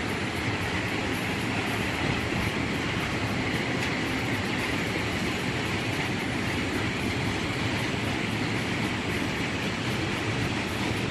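Freight train rolling past at a steady speed, a continuous rumble and rush of wagons on the rails.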